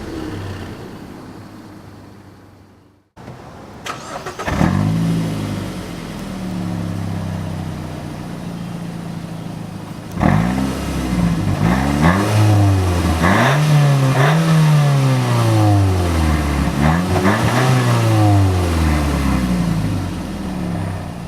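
Mazda 3 exhaust, split into a dual exit, with the engine revved in a run of short blips, each rising and falling in pitch, between stretches of steadier running. The sound fades and cuts off sharply about three seconds in, and the blips come thickest from about ten seconds on.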